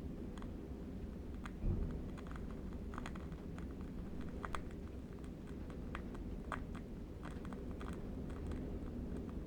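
Steady low wind rumble with faint, irregular crackles from a burning candle wick, and one low thump about two seconds in.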